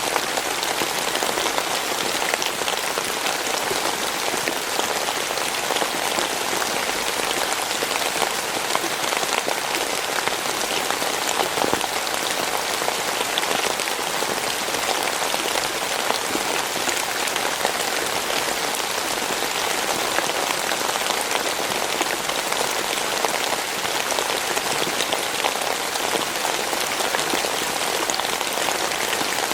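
Steady rain falling, a dense, even patter of many drops with no let-up.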